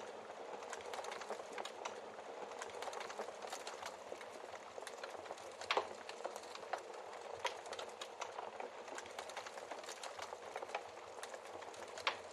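Wood fire crackling: a steady hiss of small crackles with frequent sharp pops, the loudest about six seconds in and again near the end.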